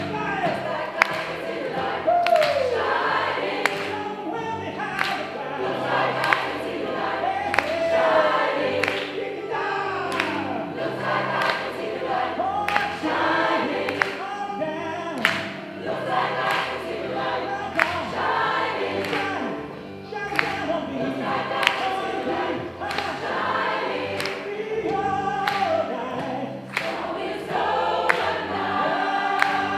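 Gospel choir singing, with many voices together over a steady beat of sharp percussive strikes.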